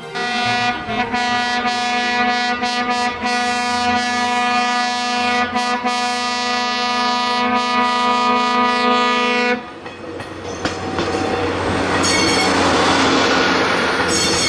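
Train horn sounding one long, steady blast for nearly ten seconds, then cutting off. The train's rumble and wheel clatter then swell as it rolls past.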